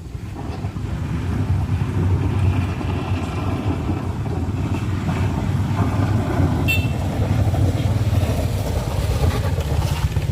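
Motor vehicle engine running under load on a steep uphill climb, a steady low drone, with a brief sharp click about two-thirds of the way through.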